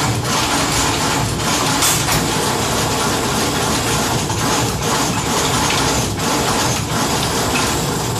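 A train passing the level crossing: a steady, loud rumble and rattle.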